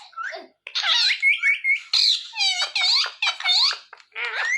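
Ringneck parrot chattering in a quick run of high-pitched notes that glide up and down, with a short break about half a second in.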